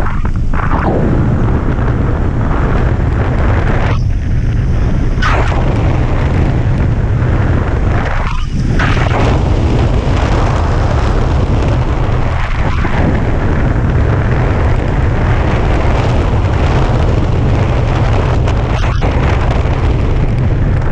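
Wind rushing and buffeting over the microphone of a hang glider in flight, a loud, steady rumble with a hiss above it.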